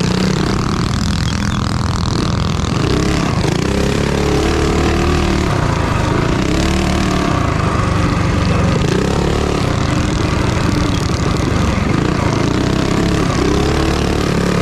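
Minibike engines running hard, their pitch rising and falling several times as they rev up and back off.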